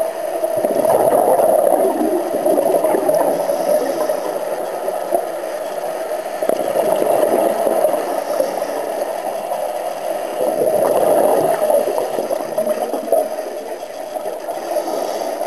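Scuba diver breathing underwater through a regulator: a short hiss on each breath in, then a gurgling rush of exhaled bubbles, repeating about every four to five seconds.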